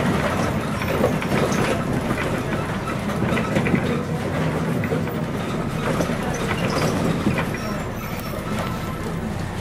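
Scania CN113CLL city bus under way, heard from inside: its Scania DSC 11.71 diesel engine runs steadily while the body and fittings rattle and clatter.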